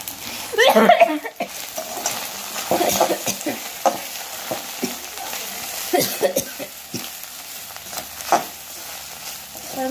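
Ivy gourd slices stir-frying in hot oil in an iron kadai, turning crisp: a steady sizzle under the repeated scrape and clack of a metal spatula against the pan. A brief voice sound comes about a second in.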